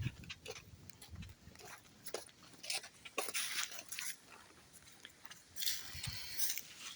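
Dry fallen leaves crunching and rustling underfoot in short bursts, loudest about three seconds in and again around six seconds in.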